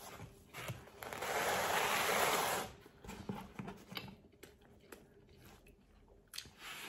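A man chewing a mouthful of pizza, with soft wet mouth clicks and smacks scattered through. About a second in, a hissing rustle lasting about a second and a half is the loudest sound.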